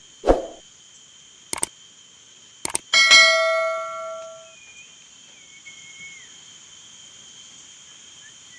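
A few sharp clicks and knocks, then a single struck metallic ring with several overtones that fades over about a second and a half. A steady high-pitched insect drone runs underneath.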